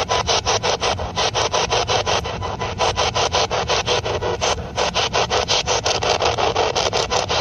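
Spirit box (ghost box radio) sweeping rapidly through stations: a steady, choppy run of radio static, about six or seven pulses a second, briefly interrupted a little past the middle.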